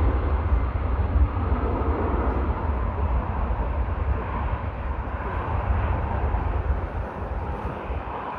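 Jet airliner passing close by, its engine rumble slowly fading as it moves away.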